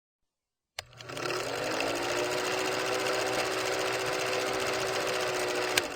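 A small electric motor starts with a brief rise in pitch, runs steadily, then cuts off suddenly with a click near the end.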